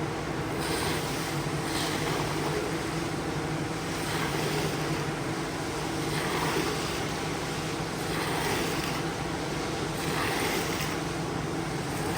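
A carpet-cleaning machine's motor running steadily, with a swish of water or spray every couple of seconds as it works over the carpet.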